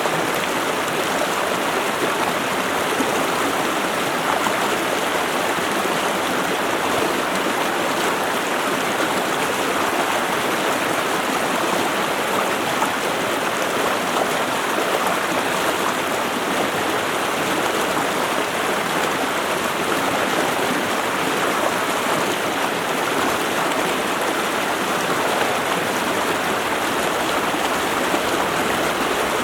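Running water of a stream, a steady, even rush with no breaks or changes.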